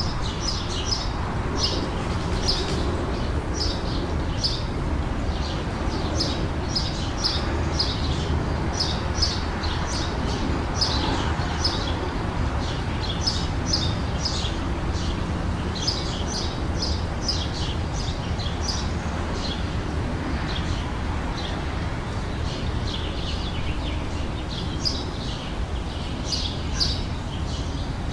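Small songbirds chirping in quick runs of short, high notes, over a steady low rumble.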